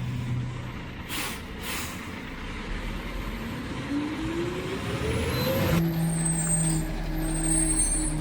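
Garbage truck: two short hisses of air, then its diesel engine revs up in a rising whine and holds at the higher speed.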